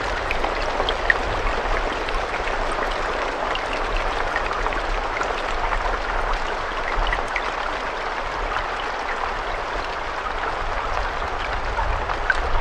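Steady rainfall: an even hiss of rain with scattered individual drop ticks.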